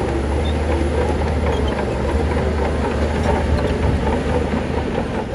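Shantui bulldozer's diesel engine running steadily under load, with the clanking rattle of its steel tracks.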